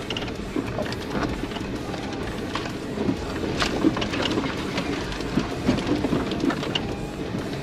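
Four-wheel-drive vehicle driving slowly over a rough dirt trail: a steady rumble with scattered clicks and knocks from stones and the rattling of the vehicle.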